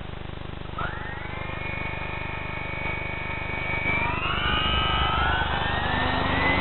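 Electric motors and propellers of a GWS C-130 model aircraft spinning up under test: a whine starts about a second in and climbs quickly, holds steady, then steps up higher and louder about four seconds in as the throttle is advanced.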